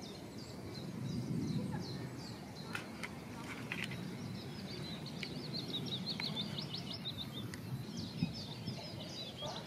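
Small songbirds singing: scattered high chirps, with a fast run of repeated notes in the middle and again near the end, over a steady low rumble of background noise.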